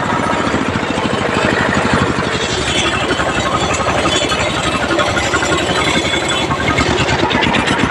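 Engine of a sanedo, a home-built farm tractor, running steadily with a rapid, even firing beat.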